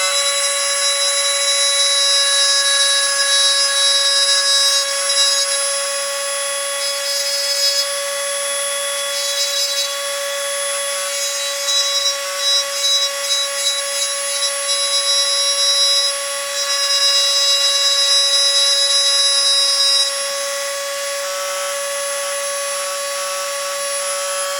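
Small rotary tool running with a steady high whine, its bit grinding the hardened steel putty in a slot car body's fender well. The sound swells and drops as the bit bears on and lifts off the work, and turns choppy with short cuts about halfway through.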